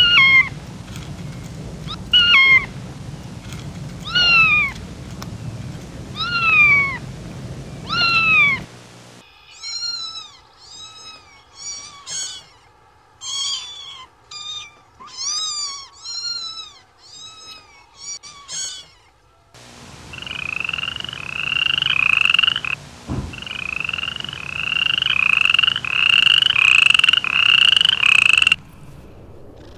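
Kittens meowing in three short clips. First, five falling meows about two seconds apart; then a run of quick, high mews, one or two a second; then a fast string of short repeated cries. The clips change abruptly.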